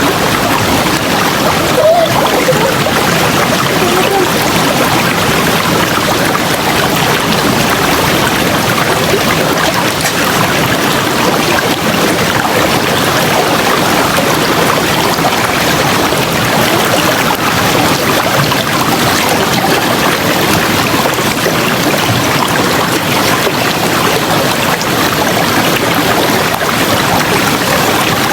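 River water rushing steadily, a constant even wash of flowing water.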